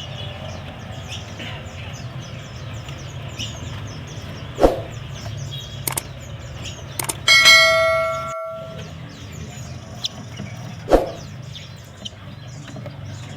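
Caged small songbirds chirping in the background, with two sharp knocks and a few clicks. About seven seconds in, a single metallic ring with several overtones is the loudest sound and fades out over a second or so.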